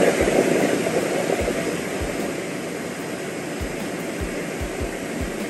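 Lidsto R1 self-emptying dock's suction motor running as it empties the robot vacuum's dustbin: a rushing noise that eases off over the first two seconds, then runs on steadily.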